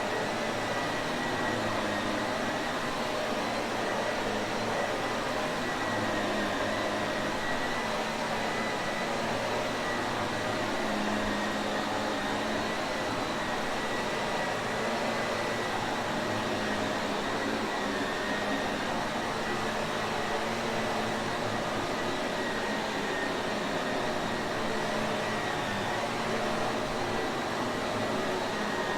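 Shark Navigator upright vacuum cleaner running steadily, a continuous motor whoosh with a faint high whine that holds constant.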